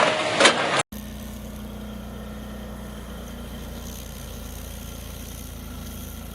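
For the first second, loud crunching machine noise with sharp cracks, then an abrupt cut. After it, the steady, even hum of a compact stump grinder's engine idling.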